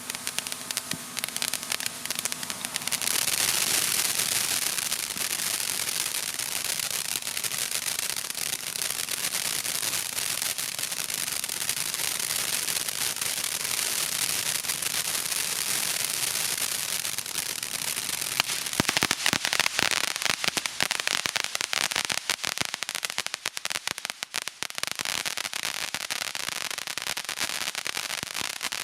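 Consumer fireworks crackling: a dense crackle sets in about three seconds in, and many sharp pops and cracks come in the last third.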